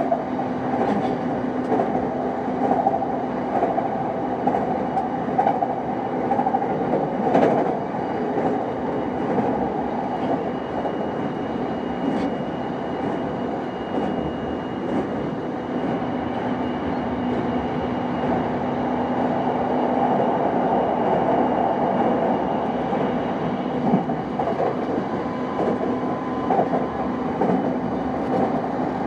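JR East E233-5000 series electric commuter train running at speed, heard from on board: a steady rumble of wheels on rail with scattered short clicks and a faint steady whine.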